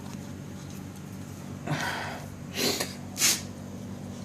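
A man huffing breath sharply through his nose three times in quick succession in the second half, the last one the sharpest, over a faint steady low hum.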